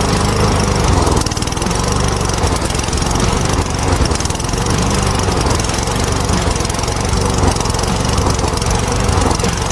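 Walk-behind lawn mower engine running steadily at speed.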